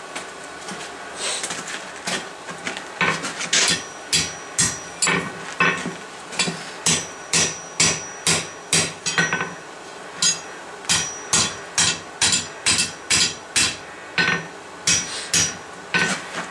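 Blacksmith's hammer striking a steel bar on an anvil while forging a fire poker. The blows come steadily at about two a second, each with a short metallic ring, broken by brief pauses.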